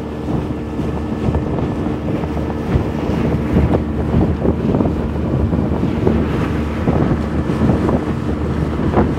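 Speedboat engine running at speed with a steady hum, under heavy wind buffeting on the microphone and the hull knocking against the water again and again.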